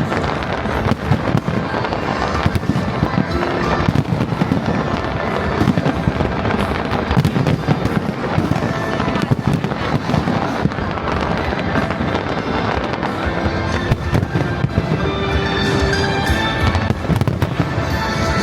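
Aerial fireworks display going off in a dense, continuous barrage: many overlapping bangs and crackles with no pause.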